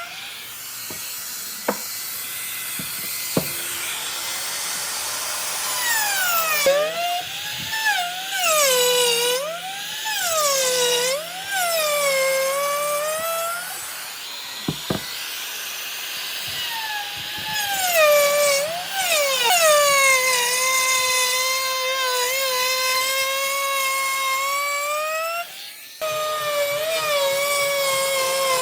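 Handheld electric power tool working wood: its motor whines, the pitch sagging and recovering again and again as it is loaded. There are a few sharp clicks in the first few seconds, and the whine briefly drops away near the end before picking up again.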